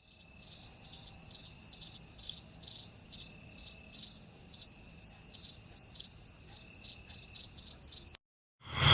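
Cricket chirping sound effect: a steady high-pitched trill that pulses about twice a second, then cuts off suddenly about eight seconds in.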